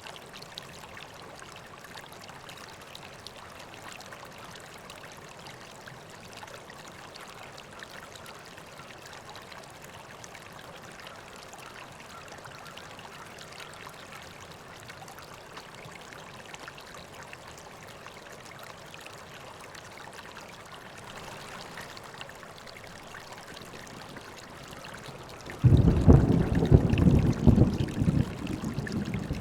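River water flowing steadily with a soft rushing sound. Near the end a loud, low rumble of thunder breaks in suddenly and rolls on.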